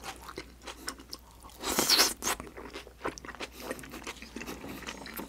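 Mouth sounds of chewing a mouthful of sauce-glazed grilled freshwater eel: scattered soft clicks and squelches, with a louder burst about two seconds in.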